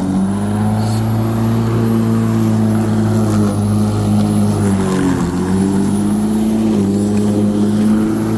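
Black & Decker 42 cm 1800 W electric rotary lawnmower running, with a steady motor hum and a high whine. The pitch dips briefly at the start and again about five seconds in as the mower loads up in thick, heavy grass.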